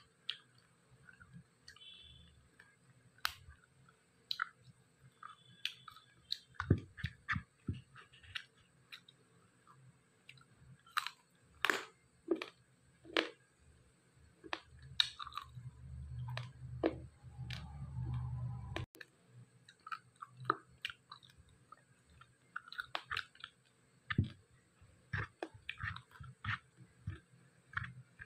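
Close-up chewing, with wet mouth smacks and clicks, as a person eats pieces of dry-fried pork. In the middle a low steady hum lasts about three seconds.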